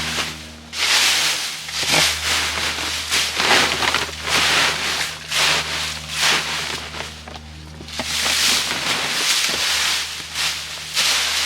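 Dry fallen leaves rustling and crunching in irregular bursts, over a steady low hum.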